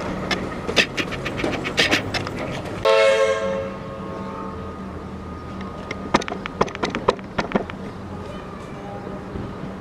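Metro electric suburban train moving through, its wheels clacking over rail joints in quick clusters. It gives one short horn blast about three seconds in. A steady low electric hum runs underneath.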